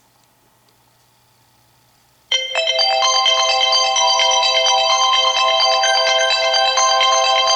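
An iOS 7 preset ringtone starts suddenly about two seconds in, after a faint hum. It is a bright chiming melody of many overlapping notes.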